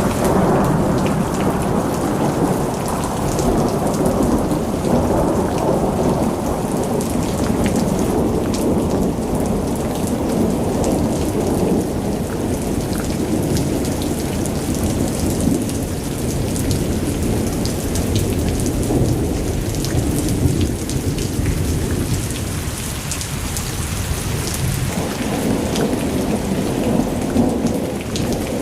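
Heavy rain pouring down, a dense steady rush with a deep rumble and the sharp patter of individual drops on surfaces. It eases slightly a little past two-thirds of the way through.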